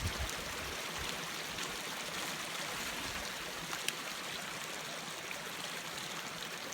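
Small mountain stream running, a steady rush and trickle of water.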